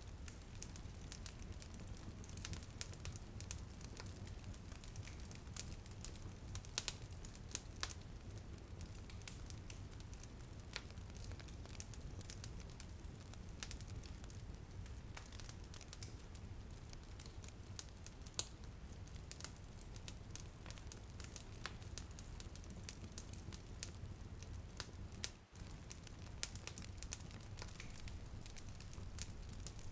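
Wood fire crackling in a fireplace: frequent irregular sharp pops and snaps over a steady low rumble and soft hiss, with light rain. The sound drops out for a split second about twenty-five seconds in.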